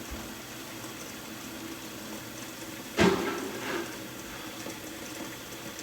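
Water running steadily from a tap, filling a container. About three seconds in, a short, sudden louder sound cuts in and dies away.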